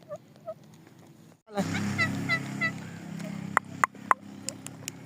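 Green parrot giving short chirps, quiet at first, then louder after a sudden break, with a run of quick high chirps over a low hum and three sharp clicks near the end.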